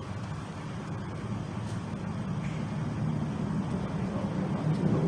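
Low, steady rumble of road traffic that grows gradually louder, as of a vehicle approaching on the bridge.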